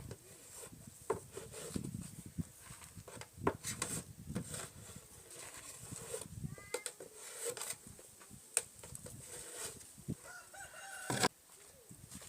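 Domestic chickens calling: short clucks about halfway through and one longer, steady-pitched call, a rooster crowing, about a second before the end. Scattered light knocks and rubbing sound throughout.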